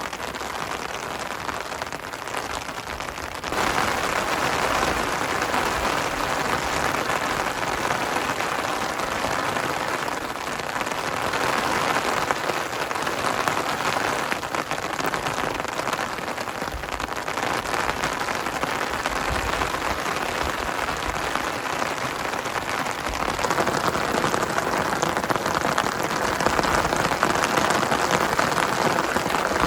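Heavy rain falling as a steady, dense patter that gets louder about three and a half seconds in.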